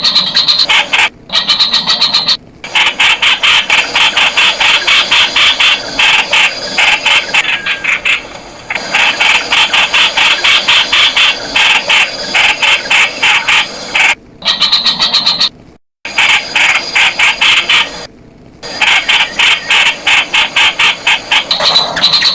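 Streak-eared bulbul calling: a fast run of harsh, short notes repeated several times a second, broken by a few brief pauses.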